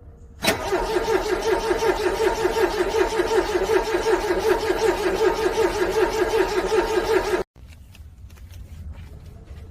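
Car starter motor cranking a cold engine in freezing weather, with a fast, even pulsing of about five strokes a second that goes on for about seven seconds without the engine firing. The cranking cuts off abruptly near the end.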